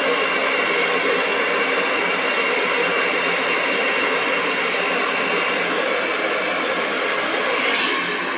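Hair dryer running steadily: a continuous rush of blown air with a faint motor whine. The sound shifts briefly near the end.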